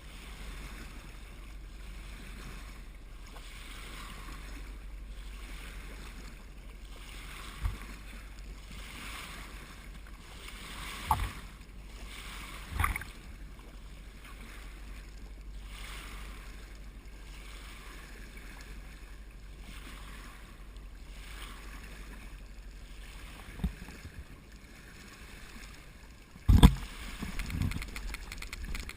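Water rushing and washing along a sailboat's hull as it moves, swelling every second or two over a steady low rumble. A few short knocks or splashes come through it, with a louder one near the end.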